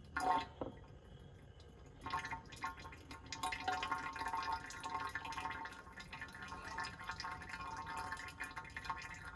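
Engine oil dripping and trickling from the drain into a catch container, a slow irregular patter as the drain nears its end. A brief knock sounds just after the start.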